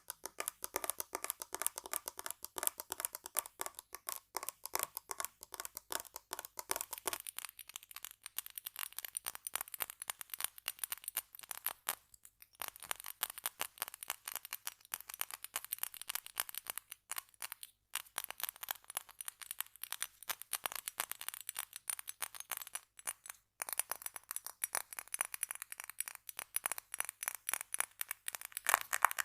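Rapid ASMR tapping on assorted small objects such as tape and glass bottles, many light taps a second. The tone of the taps changes about seven seconds in and again near the end, as the object being tapped changes.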